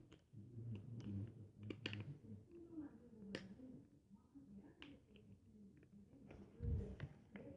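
Close-up eating sounds of a person eating ramen: chewing with sharp, irregular wet mouth clicks, and a low thump near the end.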